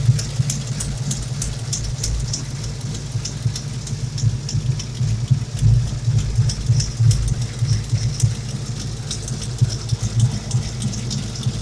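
Ford 351 Windsor V8 idling steadily, with a fast, irregular sharp ticking over the top of the exhaust note, which the owner puts down to leaking header and collector gaskets.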